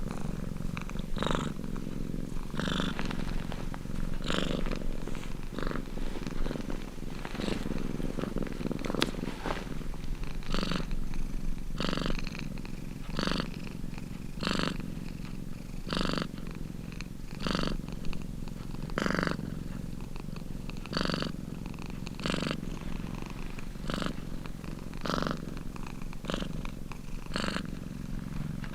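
Domestic cat purring steadily and close up, each breath giving a louder pulse a little over a second apart.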